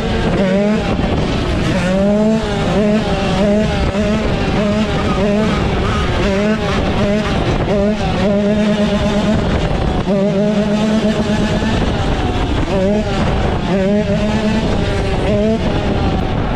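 Motorcycle engines running hard, their pitch rising and falling over and over as the throttle is worked, with a steady low drone underneath.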